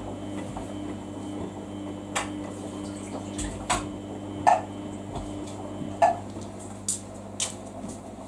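Samsung washing machine on a 15-minute quick wash, running with a steady low hum while the drum tumbles the wash, with about six sharp clicks and knocks at irregular intervals.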